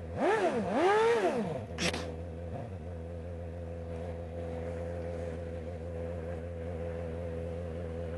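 Motorcycle engine revved twice in quick succession, rising and falling in pitch each time, with a short blip near two seconds, then settling into a steady idle.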